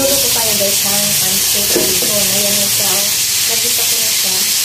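Diced food frying in oil in an uncovered wok: a steady sizzle.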